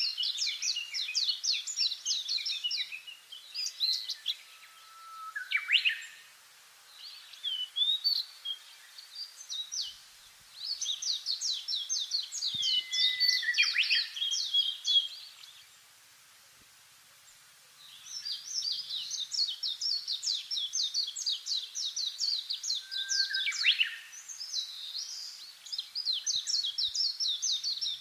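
Songbirds singing: phrases of rapid, high chirping trills lasting several seconds each, broken by short pauses and a few downward-sliding notes, with one longer lull just past the middle.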